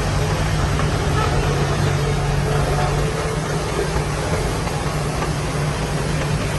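Heavy diesel engine of earthmoving machinery running steadily with a low, even drone and a wide mechanical noise over it.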